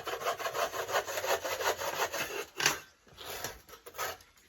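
Hand saw cutting through a wooden stick in quick rasping strokes, pausing about three seconds in, then a few more strokes before it stops.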